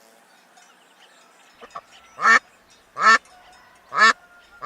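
Duck quacking: after a quiet start and two soft calls, four loud quacks come about a second apart.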